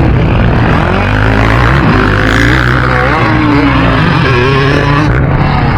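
Several motocross bike engines running on the track, their pitch rising and falling as the riders rev through the gears and back off.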